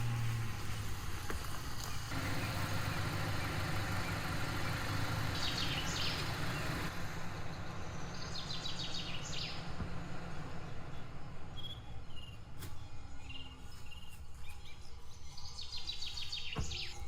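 Forest ambience with bird song: a few short trills of rapid high notes over a steady background rush with a low hum, which quietens about seven seconds in.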